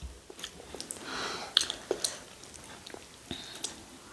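Close-up chewing and mouth sounds of people eating rice and stew, with scattered small clicks and smacks.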